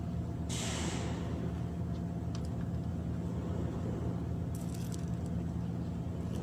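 A steady low engine drone, with a brief hiss about half a second in and a few faint clicks.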